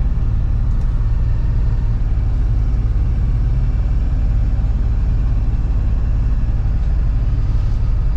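Box truck's engine and road noise droning steadily inside the cab while driving, with the sound concentrated in a low hum.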